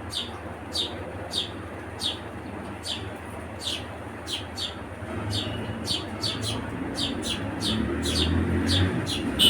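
House sparrows chirping: short, falling chirps repeated about twice a second, over a low rumble that builds in the second half.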